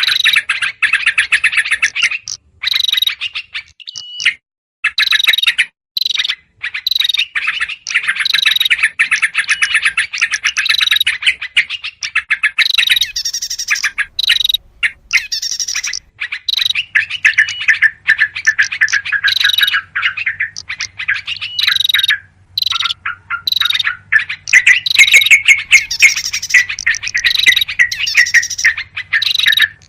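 Yellow-vented bulbuls in a noisy bird-lure recording, mixed with other small songbirds. They give fast, dense chattering calls in runs of a few seconds, broken by short gaps.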